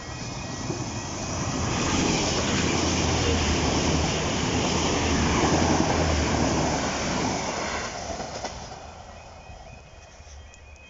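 A train passing over a level crossing: a rush of wheel-on-rail noise with a low engine hum that builds over the first two seconds, holds, and fades away from about eight seconds in. The crossing's warbling alarm can be heard at the start and again as the train noise dies away.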